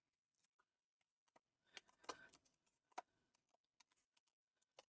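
Near silence, with a few faint taps and light rustles of a paper square being folded into a triangle, the loudest about three seconds in.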